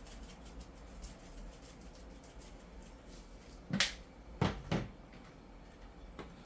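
Chicken seasoning shaken from a shaker bottle, a quick faint patter of granules. About four seconds in come three louder thumps close together.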